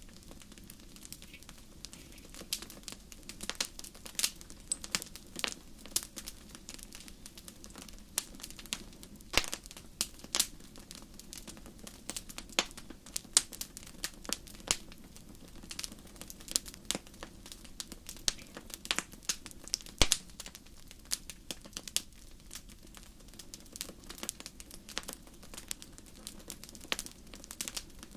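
Wood fire in a fireplace crackling, with irregular sharp pops and snaps, some a good deal louder than others, over a faint steady low rumble.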